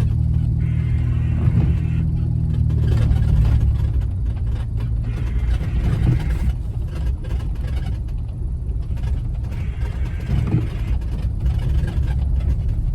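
Jeep Wrangler's engine running steadily at low speed, heard from inside the cab as it drives through snow, with noise from the tyres in the snow coming and going.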